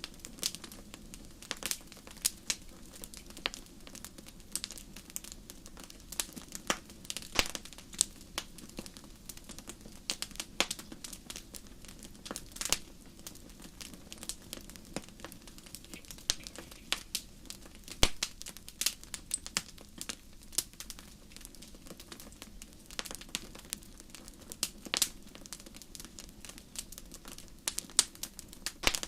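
Wood fire crackling in a fireplace: irregular sharp pops and snaps, several a second, a few of them loud, over a steady low rush of flame.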